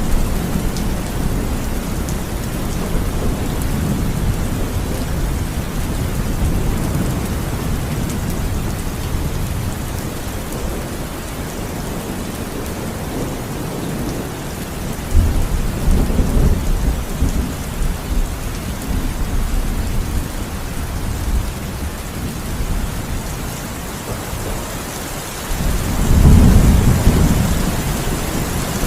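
Heavy rain falling steadily, with low rolls of thunder swelling about halfway through and again near the end.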